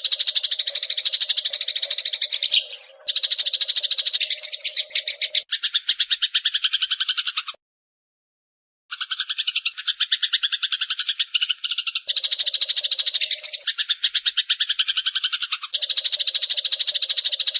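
Eurasian tree sparrows (burung gereja) giving rapid, continuous chattering fight calls, a dense run of quick chirps. It breaks off for about a second near the middle, then resumes.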